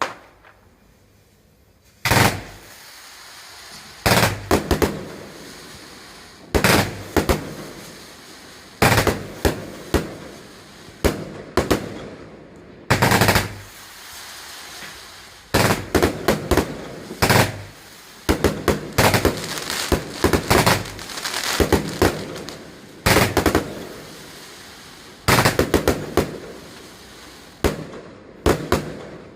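Fireworks going off: clusters of sharp bangs every second or two, with crackling between them, starting about two seconds in.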